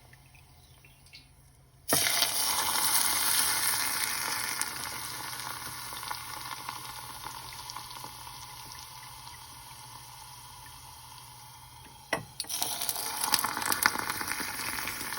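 Garlic cloves and rosemary sizzling and bubbling in hot olive oil. The sizzle starts suddenly about two seconds in and slowly fades, stops briefly near the end, then comes back louder with sharp crackles.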